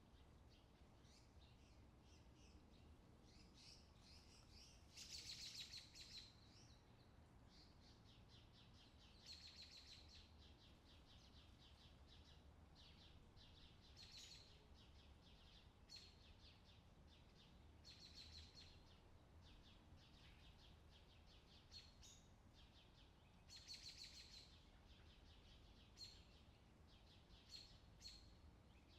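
Faint outdoor summer ambience: birds chirping over a low steady background hiss, with repeated short chirps and trills every second or two and a few louder calls.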